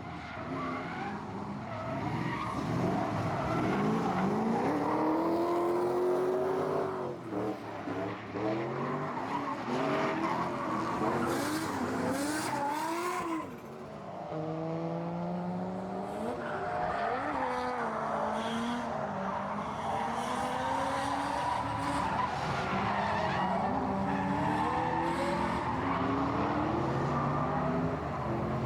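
V8-swapped Nissan Silvia drift cars, engines revving up and down repeatedly over sustained tyre squeal, with a brief lull about 13 seconds in.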